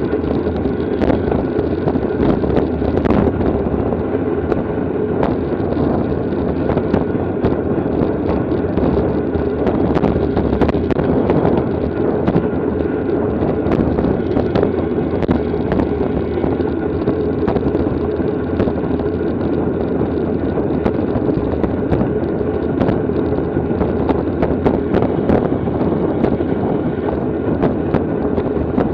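Steady wind rushing over the microphone of a camera riding on a racing bicycle at speed, with scattered sharp clicks and knocks throughout.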